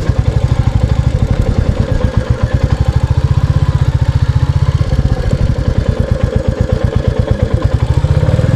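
Royal Enfield Classic 350 single-cylinder engine running at low revs, a steady, even thump as the motorcycle is ridden slowly in to park.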